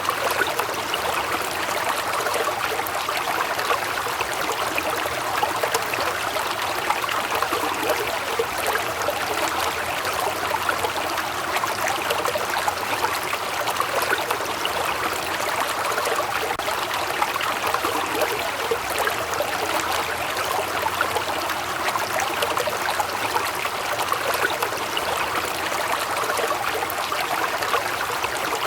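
Waterfall: water falling and splashing steadily.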